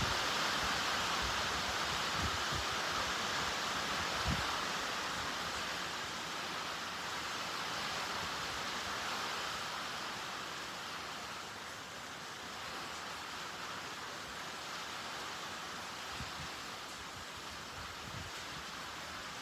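Stormy weather: wind rustling through trees as a steady hiss that eases a little in the second half, with a few soft low thumps.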